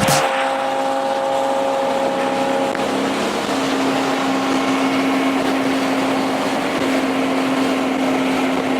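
A car engine droning at a steady pitch under road noise, as at cruising speed on a highway. Its pitch steps up slightly about three and a half seconds in.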